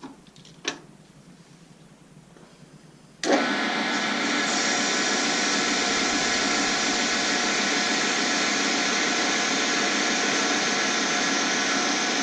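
A couple of light clinks, then a metal lathe switches on about three seconds in and runs steadily, turning the knob blank while a recess is cut into it for the collet.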